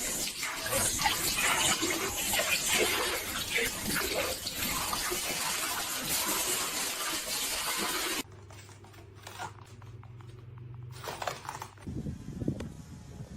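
Loud rushing, splashing water for about eight seconds, which cuts off suddenly. A much quieter stretch with a faint, low, steady hum follows.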